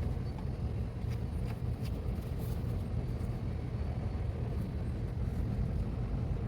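Steady low rumble in the background, with a few faint, light metal clicks from 17 mm nuts being fitted by hand onto the transmission-mount bolts.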